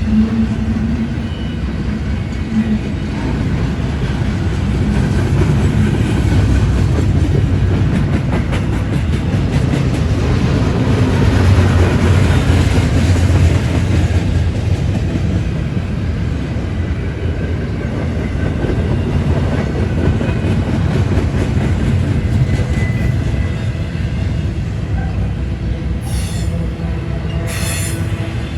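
Freight train of intermodal container railcars rolling past: a steady, heavy rumble of wheels on rail with rapid clicking, loudest about midway through. A few brief high-pitched wheel squeals come near the end.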